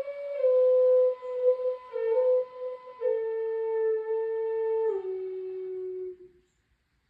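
A flute playing a slow melody of held notes that step down in pitch, stopping about six seconds in.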